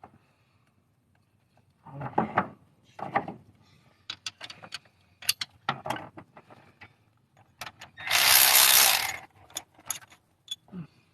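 Hand ratchet clicking in short runs as cylinder head bolts are tightened down in sequence, with a louder, longer rasping run about eight seconds in.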